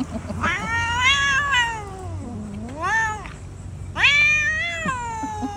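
Domestic cat giving three drawn-out, complaining meows: a long one that slides down low, a short rising one, then a long slowly falling one. It is a grumpy, irritated cat, which the owner calls "galak" (fierce).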